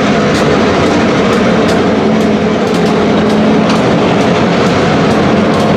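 Freight cars rolling past on the rails: a loud, steady wheel-on-rail rumble with many sharp clicks, several a second.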